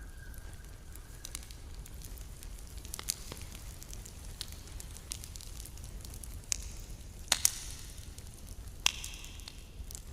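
Campfire crackling, with irregular sharp pops scattered through and a few louder ones in the second half, over a low steady rumble.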